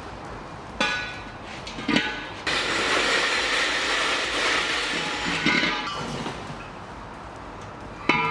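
A part being unpacked from its box: packaging rustling for a few seconds between several knocks and clinks with a short metallic ring, the last one loudest.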